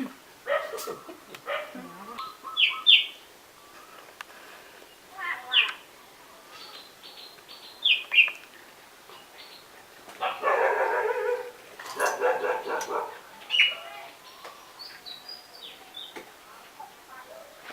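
A domestic animal's short, high-pitched calls, repeated at irregular intervals, with a longer run of calls about ten seconds in.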